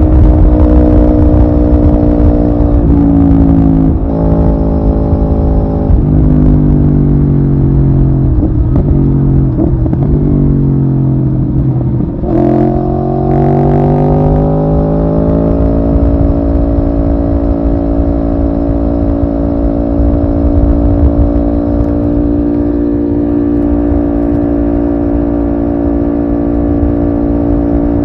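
Aprilia Tuono V4R's V4 engine running under way with wind rush. Its note drops in a few steps and sits low for several seconds, then rises smoothly for about four seconds from the middle and settles into a steady cruise.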